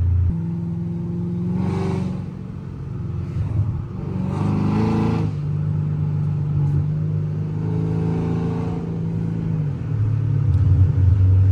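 Chrysler 300C's 5.7-litre HEMI V8 running while driving. Its pitch drops just after the start, rises briefly twice, holds steady, then settles back to a lower steady hum near the end.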